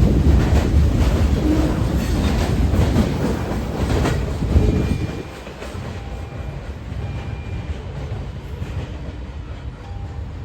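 Freight train rolling past, its wheels clicking over the rail joints; the rumble drops off about five seconds in as the last cars go by, leaving a quieter steady rumble.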